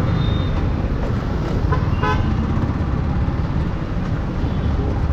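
Steady low rumble of a motorcycle riding through city traffic, with one short vehicle horn toot about two seconds in.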